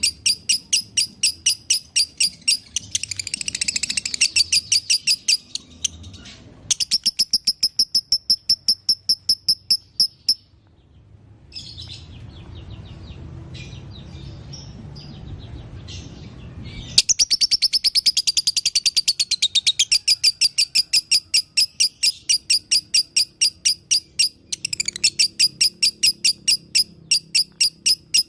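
Lovebird's long 'ngekek' chatter: fast runs of high, sharp chirps repeated many times a second. The chatter breaks off for several seconds in the middle, leaving only a few scattered soft notes, then starts again loudly.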